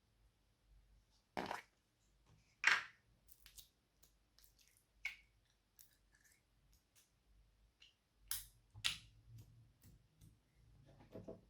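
Slime being squeezed and worked by hand: short wet pops and clicks, strongest at about one and a half and two and a half seconds in and twice more near nine seconds, with fainter ticks between.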